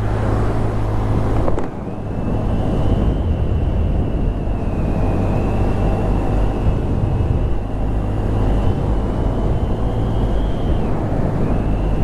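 Honda Grom 125's single-cylinder engine running steadily under way, with a thin, wavering high whine over it. The sound dips briefly about a second and a half in.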